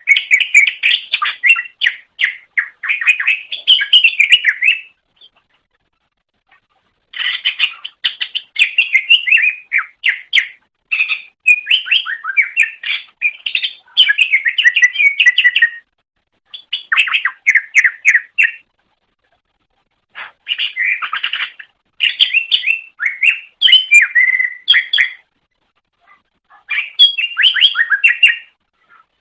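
A greater green leafbird (cucak ijo) singing fast runs of short, quick notes. The song comes in phrases of a few seconds each, broken by short pauses.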